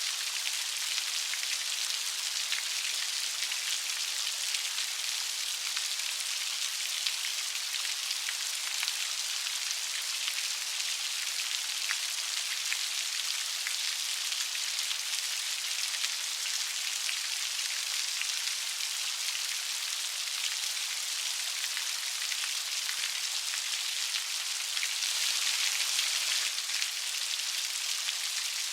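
Steady light rain, a dense patter of drops on a surface, swelling slightly for a couple of seconds near the end.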